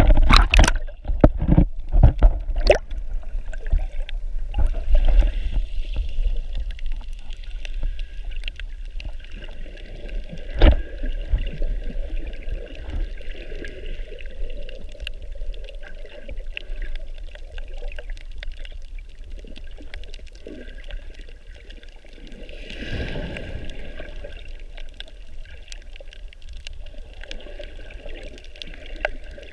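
Water sloshing and gurgling around the camera while snorkeling, with a low rumble throughout. Several loud knocks come in the first few seconds, another sharp one about ten seconds in, and the water noise swells briefly near the end.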